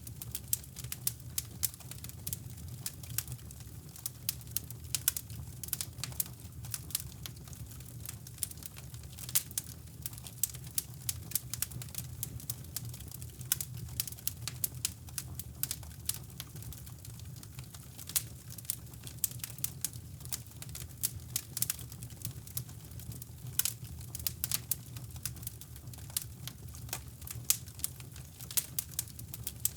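Wood fire crackling in a fireplace, with sharp, irregular pops and snaps over a steady low brown-noise rumble.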